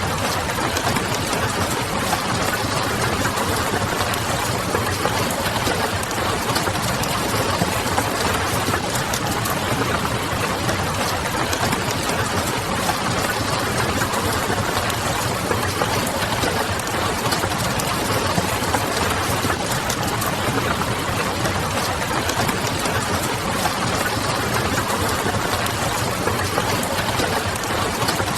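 Steady rain pattering on a window, mixed with the crackle of a wood fire and a low, steady hum beneath.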